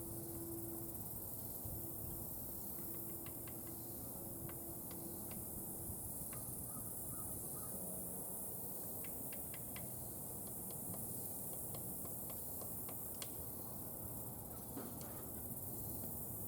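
Juvenile red-bellied woodpecker pecking at a pecan nut held in a tree knot: sharp irregular taps, often in quick runs of several, starting a few seconds in and stopping near the end.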